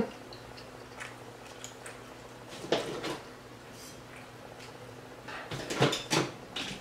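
Mouth sounds of a woman chewing a mouthful of calzone, in two short spells: one about three seconds in, and a longer one around six seconds in.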